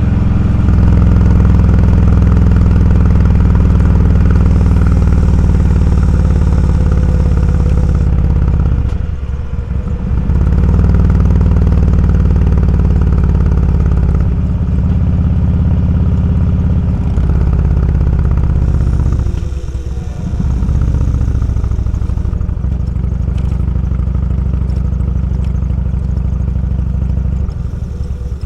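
Motorcycle engine running steadily under way, with its note dropping briefly twice, about nine and twenty seconds in.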